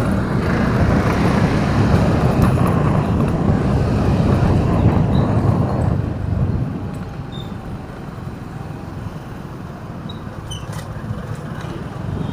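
Vehicle and road noise while driving, a steady low rumble that is louder for about the first six seconds, then settles quieter.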